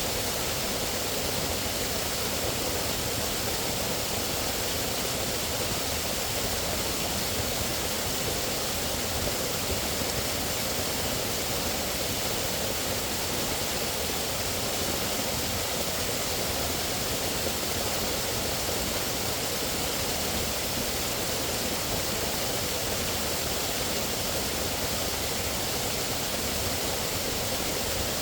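Running water rushing steadily, without a break.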